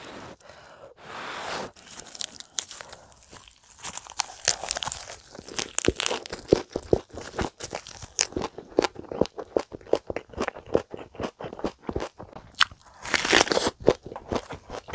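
Close-miked chewing of a lettuce wrap of spicy stir-fried chicken, with a dense run of crisp, crackly crunches once the chewing gets going. A louder crisp bite comes near the end.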